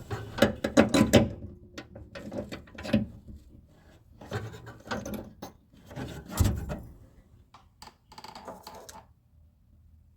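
Irregular clicks, knocks and rattles of metal parts being worked by hand as an outer door handle and lock are fitted into a 1957 Chevrolet Bel Air door. The clatter stops about nine seconds in.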